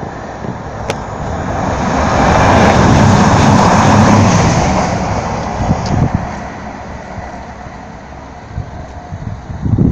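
CrossCountry express passenger train passing through the station at speed without stopping: a rushing noise that builds to a peak three to four seconds in, then fades away.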